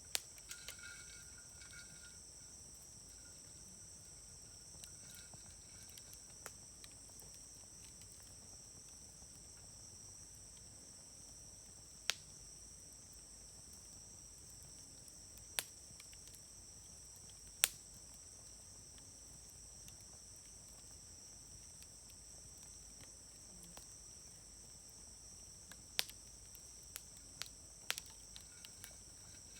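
Campfire wood crackling, with a handful of sharp pops spread through and smaller ticks between them. A steady high insect trill runs underneath.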